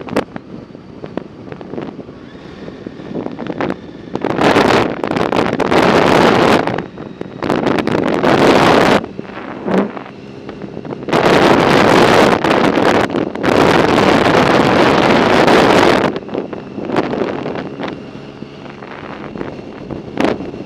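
Wind buffeting the microphone while riding a bicycle, rising in several long loud gusts over a steadier rush.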